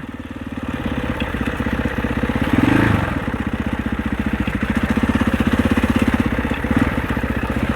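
Husaberg 650 four-stroke single-cylinder enduro dirt bike engine running under way on a trail, pulsing steadily, with a brief surge in revs about three seconds in.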